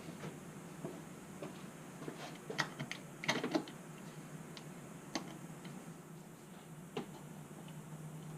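Scattered light clicks and taps from handling oil containers during an engine oil top-up, with a quick cluster of them about three seconds in.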